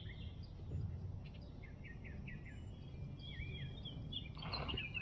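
Birds chirping: a quick run of short, evenly repeated chirps, then a higher trilled song near the end, over a steady low rumble.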